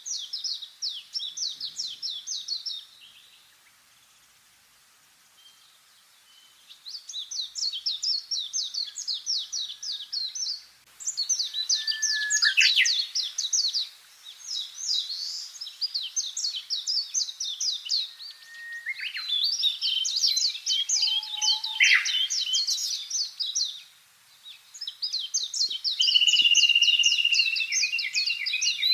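Songbirds singing: high, fast trilled phrases of about three seconds each, repeated and at times overlapping, with a couple of quick downward-sliding whistles. There is a few-second pause after the first phrase.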